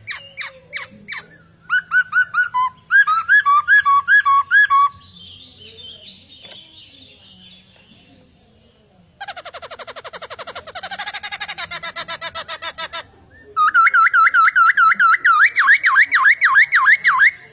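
A poksai (laughingthrush) singing loudly in separate bouts: a few sharp notes, then repeated whistled two-note phrases, a fast rattling trill around the middle, and a long run of rapid repeated whistles near the end.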